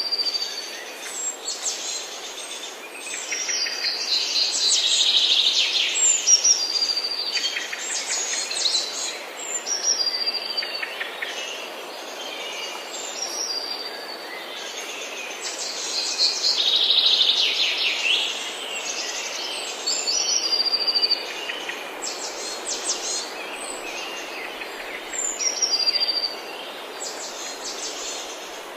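Forest birds singing and calling together: a short whistled note sliding down in pitch, repeated every second or two, among denser trills and chatter that swell and fade, over a faint steady hiss.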